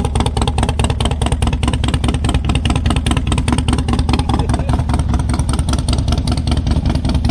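Loud vehicle engine idling, with a deep, even, rapid pulsing beat from its exhaust.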